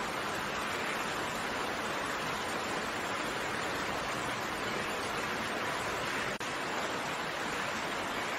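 Steady rain falling, an even hiss with no single drops standing out. There is a brief dropout about six seconds in.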